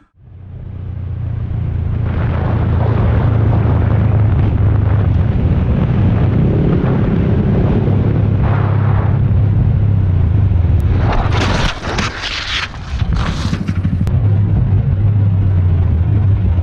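A motor vehicle's engine running steadily with a heavy low rumble, likely mixed with road and wind noise on the microphone. It fades in after a cut, and a few seconds before the end it is broken by several short, harsh noisy bursts.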